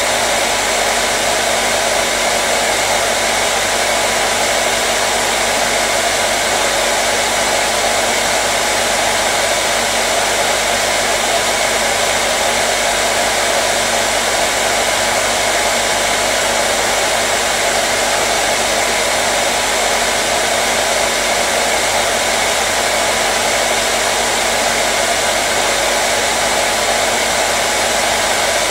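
Electric hair dryer running steadily: an even, loud rush of blown air with a faint steady motor hum underneath.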